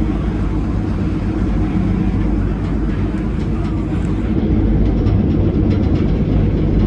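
Train running along the track, heard from aboard a carriage: a steady, even low rumble, with faint clicks in the second half.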